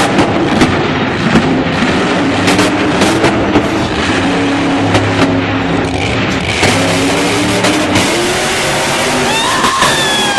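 Monster truck engine running loud and revving, with scattered knocks and a few high squeals near the end.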